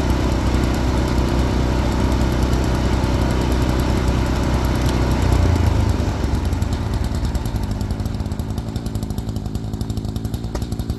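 Wood-Mizer band sawmill's engine running steadily through a cut. About five and a half seconds in it swells briefly, then drops to a quieter, lower, pulsing run, as when the engine comes down to idle at the end of the cut.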